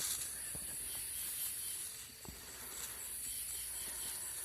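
Night insects, crickets among them, trilling steadily in a high continuous band, with one faint tap about two seconds in; no firework bangs.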